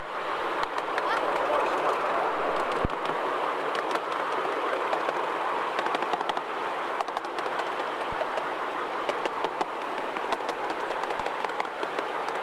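Miniature ride-on railway train rolling along the track, heard from aboard a passenger car: a steady noise of wheels on rails with scattered clicks.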